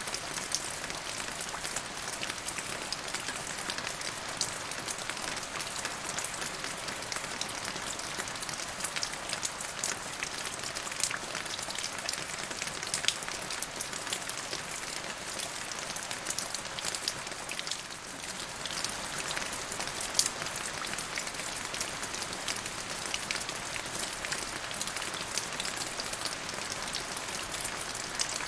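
Steady rain falling, a constant hiss with many individual drops ticking sharply on top.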